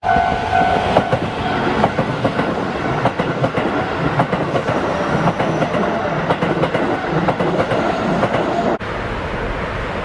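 Keihan electric train passing at a level crossing, its wheels clacking rapidly over the rail joints above a rumble. A steady two-tone ringing, typical of a Japanese level-crossing warning bell, sounds for the first two seconds or so. Near the end the sound changes abruptly to a steadier rumble.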